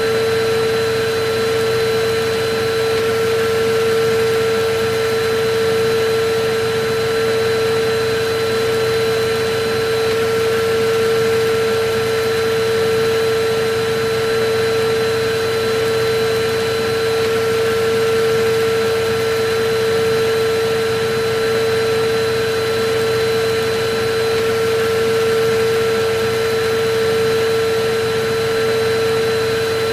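Vacuum cleaner running steadily: a constant rushing of air with a steady high hum over it.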